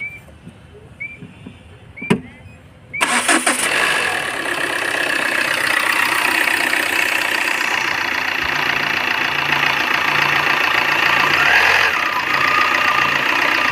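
The Tata Indigo CR4's 1.4-litre common-rail diesel engine is cranked and starts about three seconds in, then idles steadily. This is its first start on fresh engine oil and a new oil filter.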